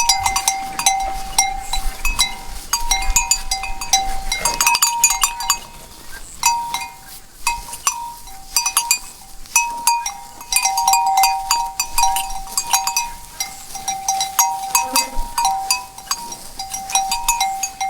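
Bells on grazing cows clanking and jangling irregularly, with two main bell pitches ringing on between the strikes.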